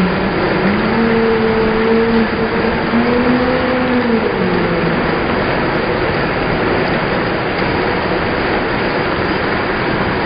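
Heavy rain as a loud, steady rushing hiss. In the first half a few long held tones sound over it, each lasting a second or two, and they stop about five seconds in.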